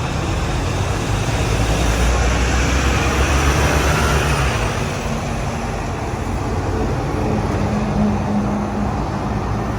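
Volvo B9TL double-decker bus in motion: a steady engine-and-road rumble with low hums that shift in pitch a few times.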